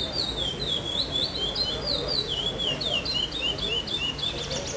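Young male curió (chestnut-bellied seed-finch) singing its classic-type song: a fast, unbroken run of clear whistled notes that swoop up and down, stopping right at the end.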